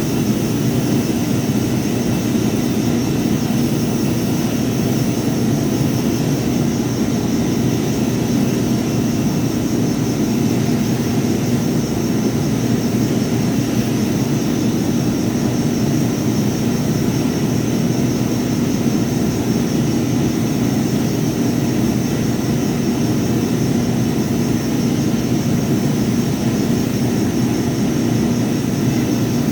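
Power sander running steadily, with a steady hum and a high whine.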